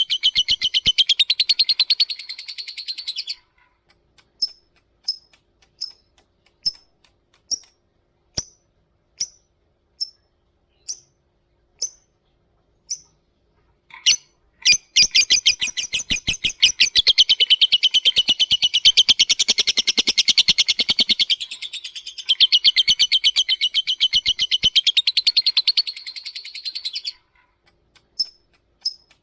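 Lovebird calling. A rapid, high chattering trill stops about three seconds in. Then come about a dozen single sharp 'tik' chirps, a little under a second apart. From about fourteen seconds a long rapid chattering trill (the 'ngekek') runs for some thirteen seconds, followed by scattered ticks near the end.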